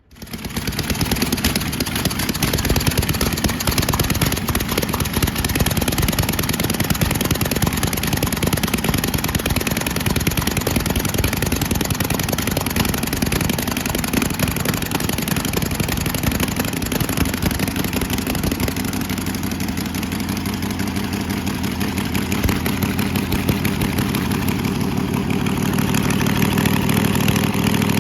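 Buick 340 V8 engine starting and running steadily on its first run after being freed from seizure and rebuilt with new piston rings and rod bearings. It comes in suddenly at the start and builds to full running within a second, then runs a little louder again near the end.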